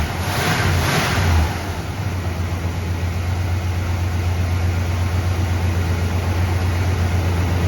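1972 Chevrolet Monte Carlo's 350 small-block V8 with a two-barrel carburettor, revving up briefly twice in the first second and a half, then settling into a steady, smooth idle.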